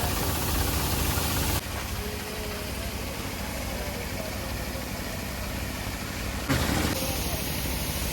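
Massey Ferguson 241 DI tractor's three-cylinder diesel engine running steadily. The sound changes abruptly about a second and a half in, and again with a short knock about a second and a half before the end.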